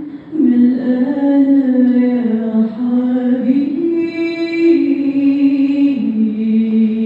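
A woman singing a slow melody in long held notes that step up and down in pitch.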